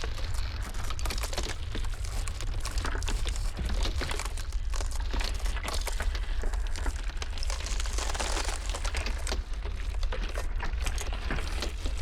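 Ice crackling and popping in dense, irregular clicks over a steady low rumble.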